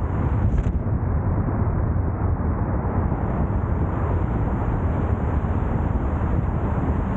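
A car on the move: a steady low rumble of road and wind noise, strongest in the bass, with no distinct events.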